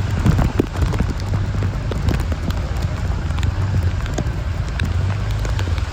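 Heavy rain falling steadily, with scattered drops ticking close by, over a steady low rumble.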